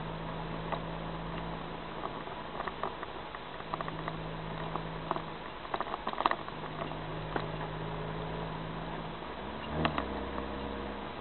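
Car engine running at a steady cruise under road noise, heard inside the cabin through a dashcam microphone, with frequent small clicks and rattles. About ten seconds in the engine note shifts briefly.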